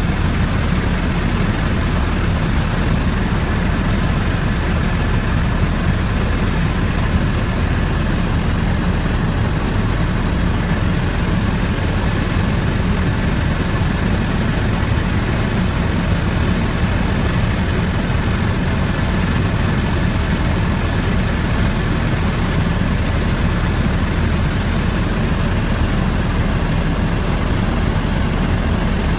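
Helicopter engine and rotor running steadily: a loud, unbroken, low-pitched noise with a faint steady whine above it.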